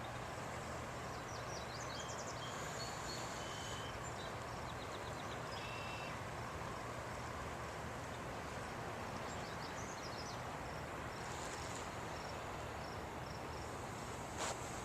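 Small birds chirping and trilling in short high phrases over a steady rushing background noise, with a brief knock near the end.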